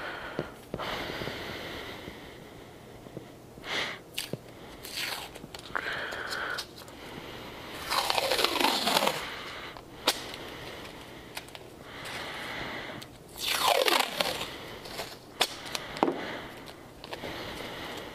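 Tape pulled off the roll in two long pulls, each sliding down in pitch over about a second, about eight and thirteen seconds in, with crinkling and short tearing sounds around them as it is handled and torn.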